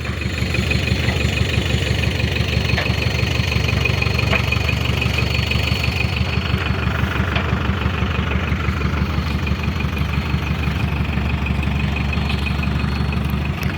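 Tata 407 truck engine running steadily at low speed while the truck is driven in reverse.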